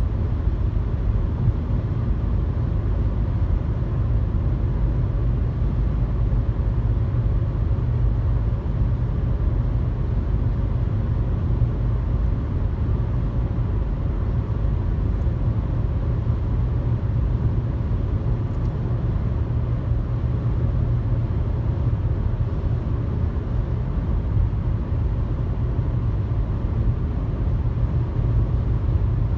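Car driving at highway speed: a steady low rumble of engine and road noise that holds level throughout.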